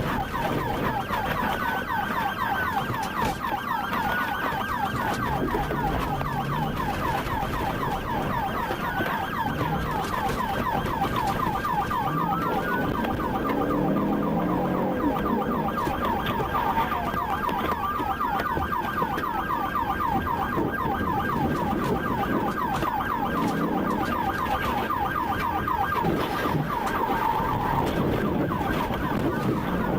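Police sirens, one in a rapid yelp and another in a slower wail that rises and falls every few seconds, over steady road and engine noise.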